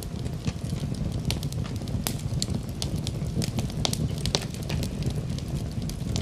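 Wood fire in a fireplace burning with a steady low rumble of flame and frequent irregular sharp crackles and pops.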